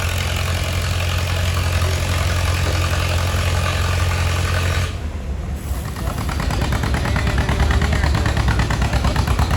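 Antique tractor engines running. A steady low hum fills the first five seconds; after a brief dip, a louder engine with a rapid firing beat takes over.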